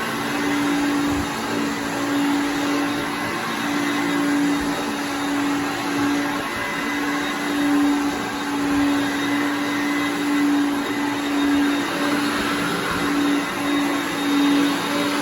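Hoover Concept One self-propelled upright vacuum cleaner running steadily on carpet: a constant motor hum and rushing suction. The level wavers gently as it travels back and forth.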